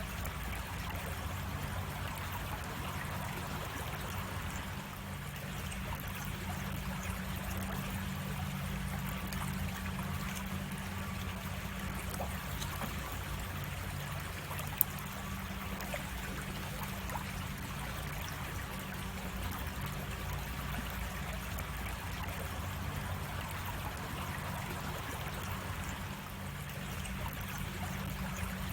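A creek running over small cascades: steady rushing and trickling water. A single sharp click about halfway through.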